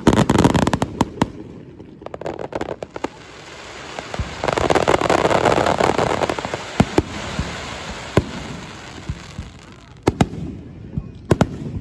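Aerial fireworks bursting, with many sharp crackling pops. About halfway through comes a dense crackling hiss lasting a couple of seconds, and scattered pops follow near the end.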